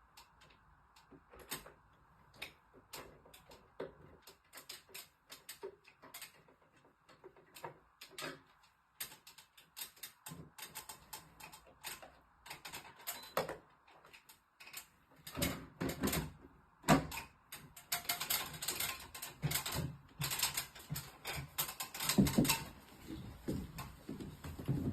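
Irregular small clicks and rattles of hands working on an air conditioner's indoor unit and its parts, sparse at first, then busier and louder in the second half.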